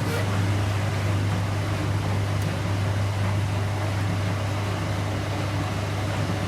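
Domestic washing machine running, a steady low hum over a noisy wash sound; the hum starts with a faint click right at the start.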